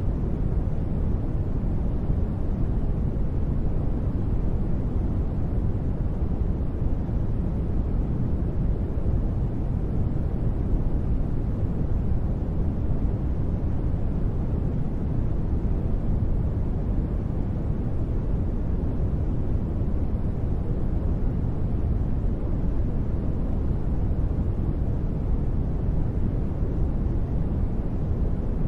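Continuous sleep noise that stays the same throughout, deep and bass-heavy rather than hissy, with no changes or sudden sounds.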